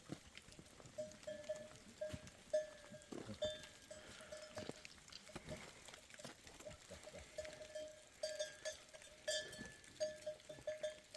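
Small bells on grazing livestock clinking irregularly as the animals move. The short ringing notes come several times a second, with a few faint knocks among them.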